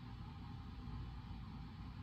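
Steady background noise of a reading room: a low rumble with an even hiss above it, and no distinct events.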